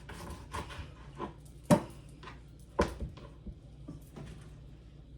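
Knife chopping on a cutting board: a few light taps and two sharp, louder chops about a second apart near the middle, cutting the tips off chicken wings.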